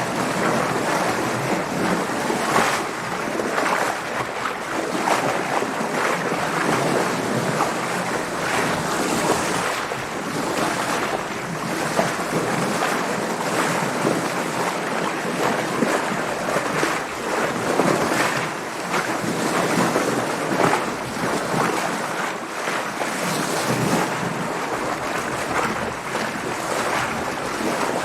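Sea water splashing and sloshing around a sailboat under way in waves: a steady, uneven rush of water with frequent small splashes, and wind over it.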